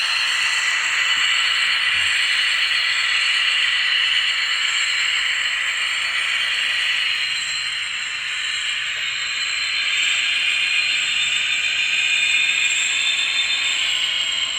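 N gauge model locomotive's DCC sound decoder playing its running sound through a tiny speaker: a steady hissing engine noise with a few thin tones in it, dipping slightly about halfway through.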